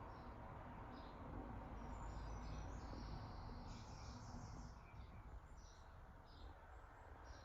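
Faint birdsong: small birds giving short, high chirps, several overlapping about halfway through, over a low steady rumble.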